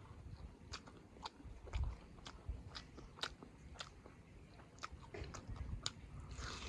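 Close-up eating sounds: biting and chewing a chicken leg piece in curry with rice, a run of sharp, irregular mouth clicks and smacks.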